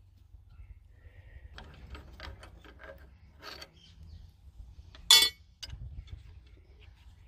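Hand tools and small metal engine parts clinking and clicking as they are handled while the engine is taken apart, with one sharp, louder metallic clank about five seconds in.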